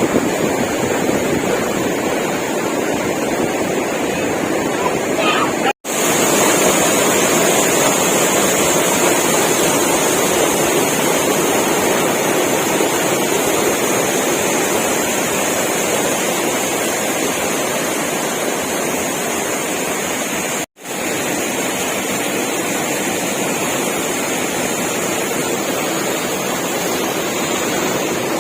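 Waterfall pouring: a loud, steady rush of water noise. It cuts out for an instant twice.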